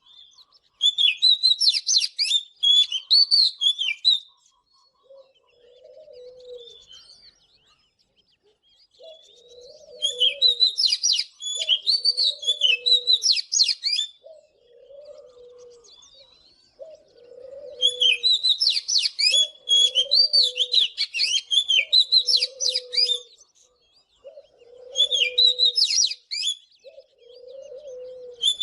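Oriental magpie-robin singing in bouts of rapid, varied whistled phrases, each bout a few seconds long with pauses between. From about five seconds in, a second, lower call repeats steadily, about every second and a half.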